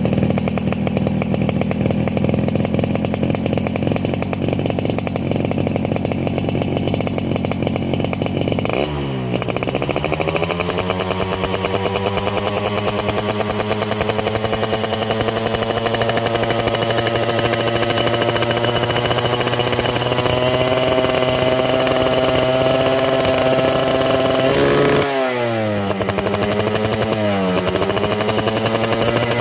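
Yamaha RX-King's two-stroke single-cylinder engine running through its stock exhaust, steady at low revs at first. About nine seconds in, the engine speed dips and then climbs, and holds high, slowly rising, for a long stretch. Near the end the revs drop and are blipped up and down three times.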